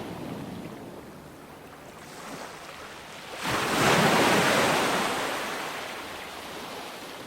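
Ocean waves breaking on a beach: a wash of surf that swells suddenly about halfway through as a wave breaks, then slowly fades.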